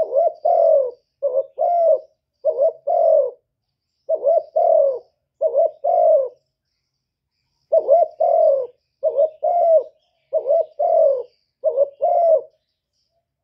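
Spotted dove cooing, the call of a decoy dove used to draw in wild ones: about ten short phrases of two or three coos in steady succession, with a brief pause about halfway through.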